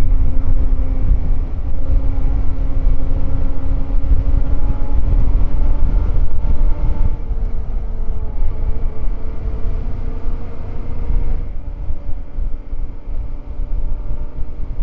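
Yamaha Ténéré 700's parallel-twin engine running at a steady cruise while riding, under heavy wind rumble on the helmet microphone. The engine note shifts about halfway through and eases off near the end.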